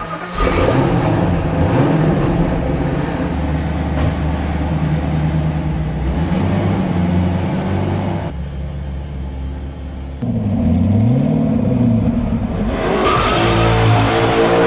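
Sports car engine revving and accelerating, its pitch repeatedly rising and falling, with a dip and climb in pitch about ten seconds in.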